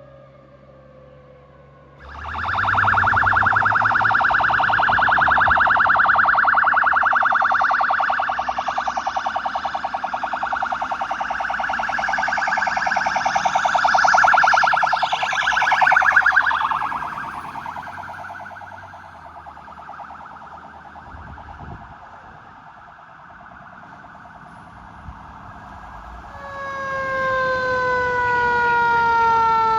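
Emergency sirens on responding fire apparatus. About two seconds in, a loud siren starts in a rapid pulsing yelp, passes, and fades away. Near the end a second siren's steady wail comes up and slides slowly down in pitch.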